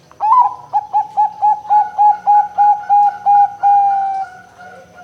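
Zebra dove (perkutut) cooing. One opening note is followed by a quick run of about a dozen short, even coos, about four a second, ending in one long note that falls slightly in pitch and fades.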